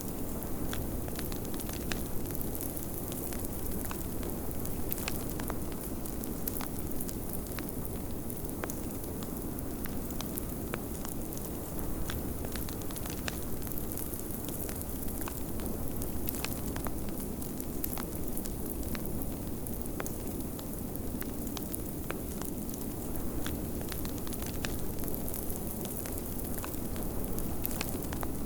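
Fireplace crackling, with scattered sharp pops, over a steady low rush of snowstorm wind.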